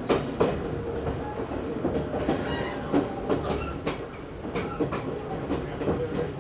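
Running noise heard inside the car of an Izu Hakone Railway Series 3000 resistance-controlled electric train: a steady rumble with irregular clicks and clatter as the wheels cross rail joints.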